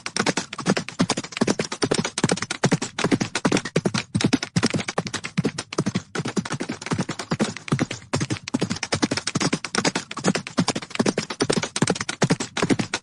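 Horse hooves galloping: a fast, continuous patter of hoofbeats on hard ground, several strikes a second without a break.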